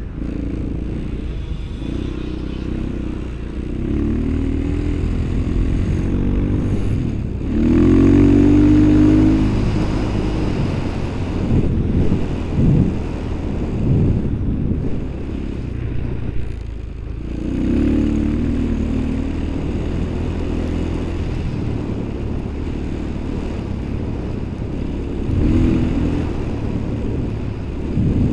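Engine of a small vehicle running under way on a trail, revving up several times, its pitch climbing and falling back.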